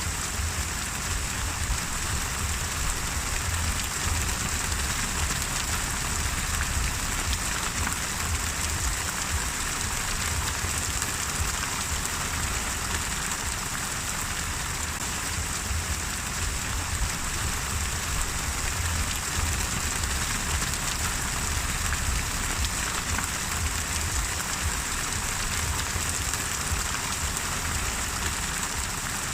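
Steady rain falling, a continuous even hiss of drops with a low rumble underneath and no pauses.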